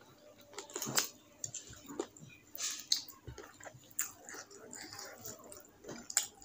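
A person chewing a mouthful of rice and pigeon curry eaten by hand, with irregular wet lip smacks and short clicks.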